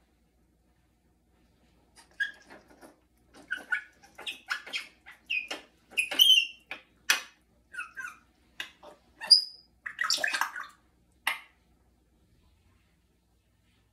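A pet parrot making a run of short clicks, pops and quick chirps that sound like drips of water, its mimicry of a water sound. They come in irregular bursts of one or two at a time over about nine seconds.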